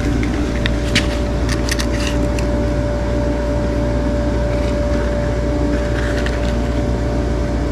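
Hoof horn being cut: a quick run of sharp snaps and clicks in the first couple of seconds, with softer scraping later, over a steady machine hum that holds one tone.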